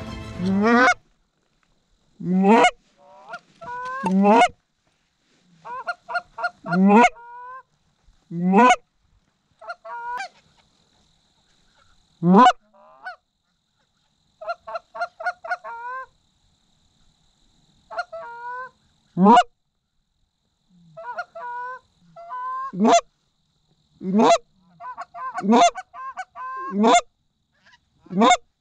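Goose honks and clucks in irregular bursts: single sharp rising honks alternating with quick runs of five or six short clucks, with pauses of a second or two between.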